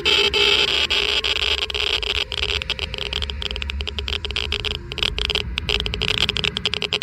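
Geiger counter clicking rapidly and irregularly, the random crackle of counted radiation particles, over a steady low rumble and hiss.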